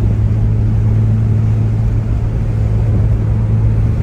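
Car engine droning at a steady speed with road rumble, heard from a car being driven up a mountain highway.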